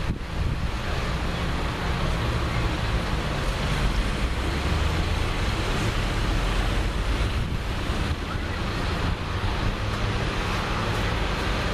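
Steady wind noise buffeting the microphone over the low sound of passing tractor engines.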